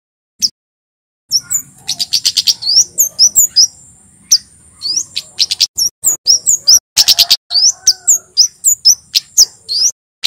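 Male kemade (Javan flowerpecker) singing. After about a second of silence comes a fast run of sharp, high chirps and upward-sweeping notes over a steady thin high trill, with quick clusters of clicking ticks about two and seven seconds in.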